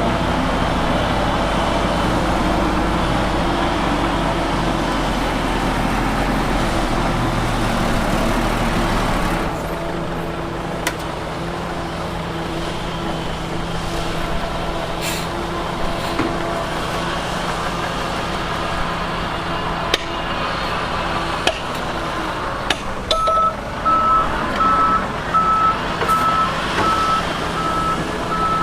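Heavy diesel engine of earthmoving machinery running, dropping to a lower, quieter run about a third of the way in, with a few sharp knocks in the middle. Near the end a reversing alarm starts, one steady high tone beeping about twice a second.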